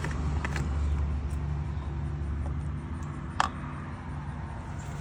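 A steady low mechanical hum, with a single sharp click about three and a half seconds in.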